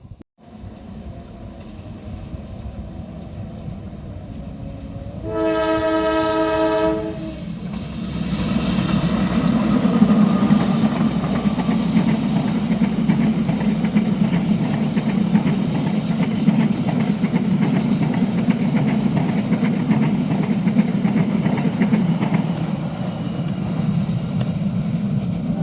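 Diesel locomotive-hauled train approaching and passing: a rising rumble, one horn blast of about two seconds, a steady chord of several tones, about five seconds in, then the loud, steady rumble and clatter of the train running by.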